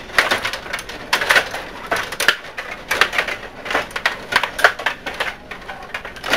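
Stiga table hockey game in play: a rapid, irregular run of sharp plastic clacks and rattles as the rod-driven players strike the puck and knock against the table.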